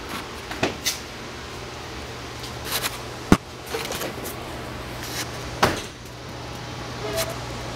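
A few sharp clicks and knocks from the truck's door and keys being handled before the engine is started, over a faint steady hum. The loudest click comes about a third of the way through.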